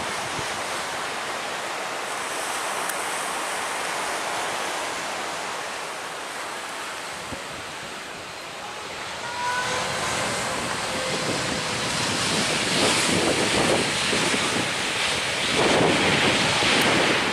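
Surf breaking on a beach, with wind buffeting the microphone. The waves grow louder about halfway through, with two bigger swells of noise near the end.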